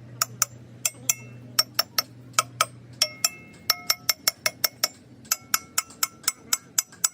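Light metallic clinks, about three or four a second at an uneven pace, each ringing briefly: metal tapping on metal, like a hand tool striking steel engine parts.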